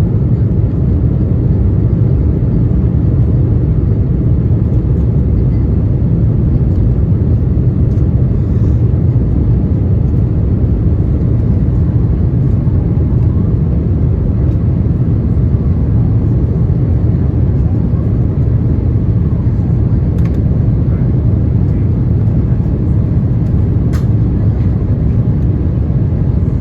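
Steady low rumble of an Airbus A350-900 heard from inside the passenger cabin: Rolls-Royce Trent XWB engine and airflow noise, unchanging in level. A couple of faint ticks come through near the end.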